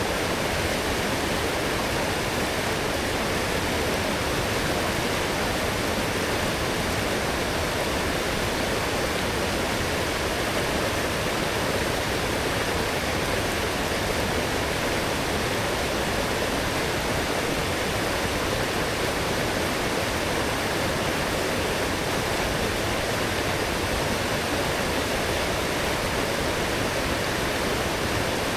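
A strong forest stream swollen after heavy rain, flowing and rushing in a steady, unbroken wash.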